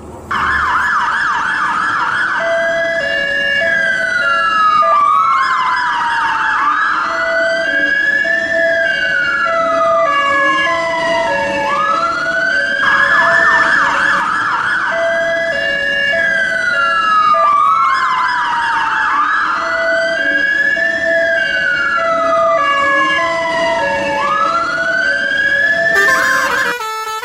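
Electronic emergency-vehicle siren wailing, rising and falling slowly and switching at intervals to a fast yelp. Lower two-note beeps repeat underneath, and the siren breaks off abruptly near the end.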